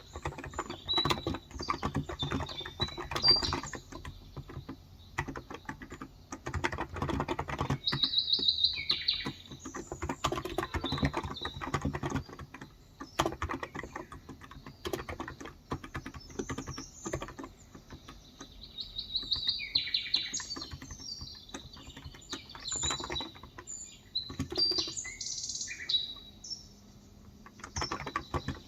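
Typing in bursts on a Cox Endeavor tenkeyless keyboard with 35 g electro-capacitive switches, soft rapid key strokes. Small birds chirp at times, in several short spells.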